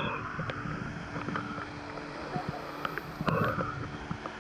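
Steady rush of water at a waterfall, with scattered small splashes from people swimming in its pool.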